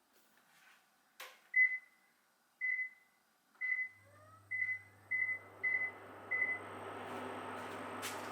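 A button click, then seven short high beeps at one pitch from an electric cooktop's controls as it is switched on and set. About halfway through a steady low hum and fan noise start as the hob begins heating, with a click near the end.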